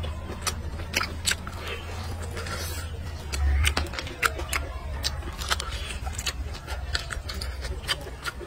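Close-up chewing and wet lip smacks of a mouthful of braised pork rib: many short, irregular clicks over a steady low hum, with a low thump about three and a half seconds in.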